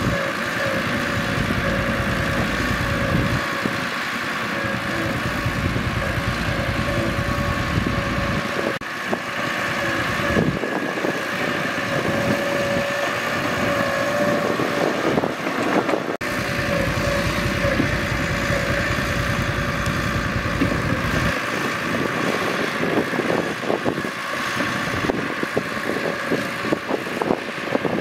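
Mitsubishi bulldozer's diesel engine running steadily, with a low rumble that drops away at times and short metallic clanks and rattles now and then, more of them toward the end.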